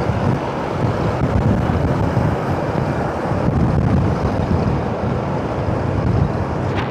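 Wind buffeting the microphone of a moving motorcycle, over steady engine and road noise.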